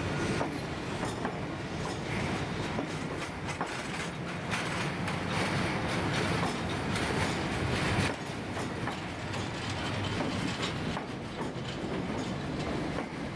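Passenger train rolling on the rails, wheels clicking and rattling over the track. It grows louder for a few seconds in the middle, then drops back abruptly.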